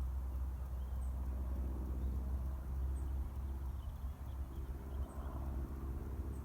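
Distant, steady low rumble of approaching Class 37 diesel locomotives, English Electric V12 engines, with faint bird chirps about once a second.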